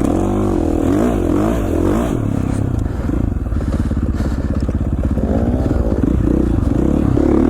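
450cc four-stroke single-cylinder dirt bike engine running under way, its revs rising and falling with the throttle.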